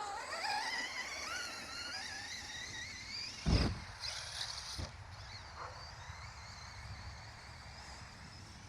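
Electric RC truck's motor whining, its pitch rising and falling with the throttle. About three and a half seconds in there is a loud thump and a smaller knock a second later, after which the whine carries on more faintly.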